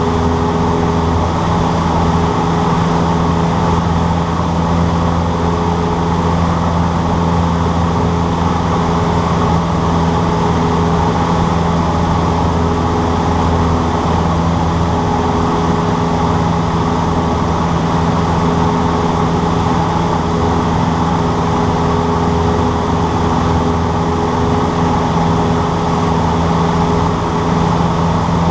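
Cessna 152's four-cylinder Lycoming engine and propeller running steadily at a constant power setting, as heard in the cabin.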